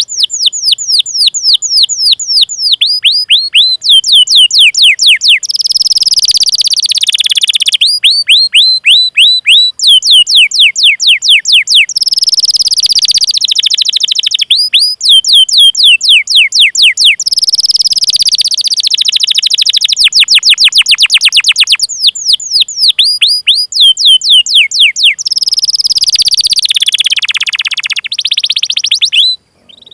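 Domestic canary singing: runs of rapid, high, falling 'cuit cuit' chirps at about six a second, alternating with rolled trills. The song cuts off abruptly near the end.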